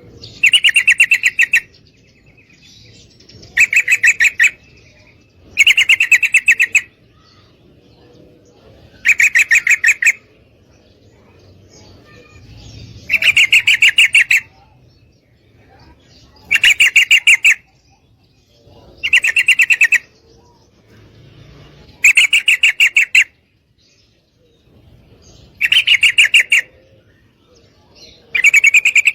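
Yellow-vented bulbul calling: a quick, chattering run of notes about a second long, repeated about ten times at intervals of two to four seconds. It is a female's call to a male.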